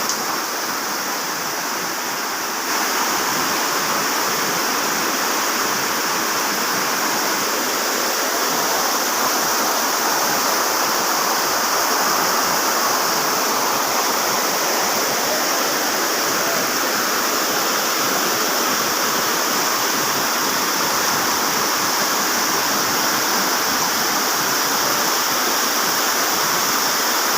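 Floodwater rushing steadily, an even, unbroken water noise that gets a little louder about three seconds in.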